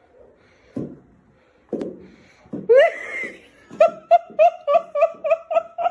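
A person cries out, then laughs in a quick run of 'ha' sounds, about three a second, starting near the middle. Before that come a couple of soft thuds.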